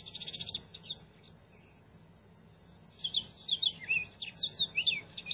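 Birds chirping: a short rapid trill at the start, then a pause, and from about three seconds in a string of short whistled chirps, some sliding down in pitch.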